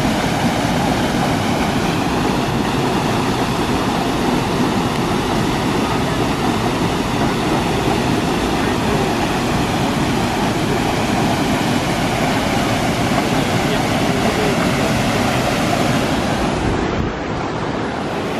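Waterfall rushing: a steady roar of falling water, dropping slightly in level near the end.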